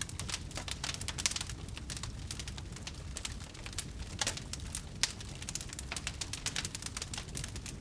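Wood fire crackling in a fireplace: a dense run of small sharp crackles over a low rumble of the flames, with a couple of louder pops a little past the middle.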